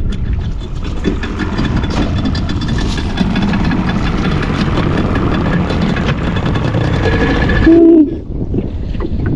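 A boat engine runs steadily under wind and water noise. About eight seconds in comes one short, loud, low hooting tone, and then the engine noise thins out.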